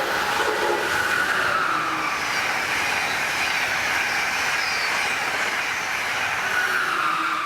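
Amtrak Northeast Regional passenger train passing at speed: a loud, steady rush of wheels on rail with high squealing tones that slide in pitch. The sound drops away sharply right at the end as the train clears.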